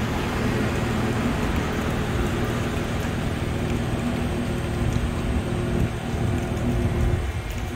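Steady outdoor city noise: rain mixed with the hum of road traffic.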